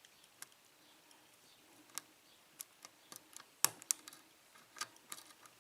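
Faint, irregular ticks and clicks of a lock pick working the pins of a 4-pin Abus No. 41 padlock under tension during single-pin picking, with a few sharper clicks a little past the middle.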